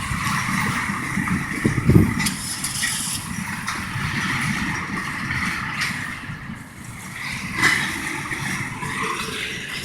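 Long Iowa Interstate freight train of tank cars rolling past: a steady rumble and rattle of steel wheels on rail, with a few sharper clunks, one about two seconds in and another near the end.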